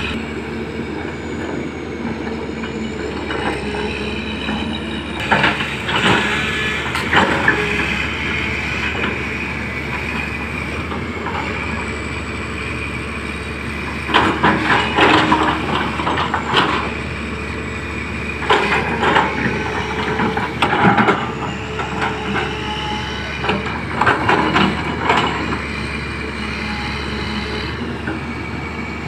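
Komatsu PC200 excavator's diesel engine running steadily with a high hydraulic whine, broken four times by bursts of loud clattering and knocking.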